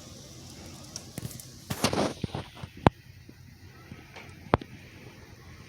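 Several sharp clicks and knocks, with a short rustling burst about two seconds in and the two sharpest clicks near three and four and a half seconds.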